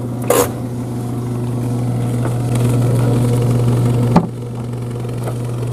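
Car engine idling with a steady low hum. A short sharp clack comes about a third of a second in, and another click just after four seconds, after which the hum is a little quieter.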